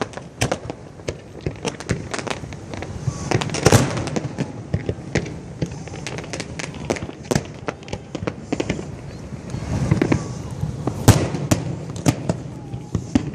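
Fireworks display bursting: a continuous, irregular run of sharp bangs and crackles over low booms, with the loudest bang about eleven seconds in.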